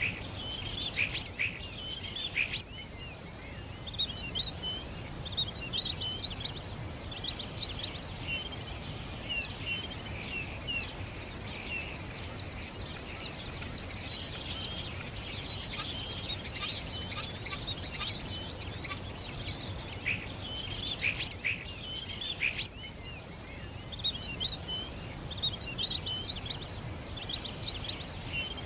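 Many small birds chirping and twittering at once, quick overlapping calls that thin out briefly twice, over a steady low background noise.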